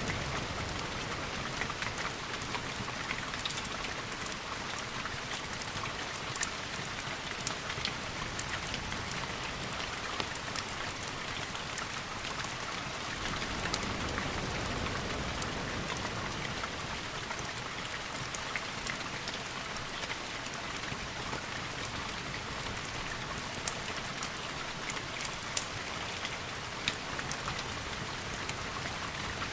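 Steady rain hiss with scattered sharp clicks and pops throughout, a few louder ones about six seconds in and several near the end.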